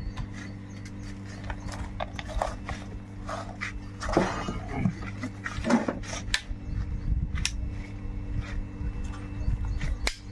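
Workshop tool work on a diesel engine: scattered sharp metallic clicks and taps over a steady low hum. Two short voice-like calls stand out about four and six seconds in.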